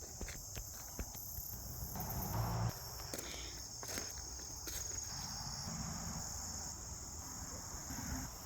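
Steady high-pitched chorus of crickets or other singing insects, with a few soft clicks.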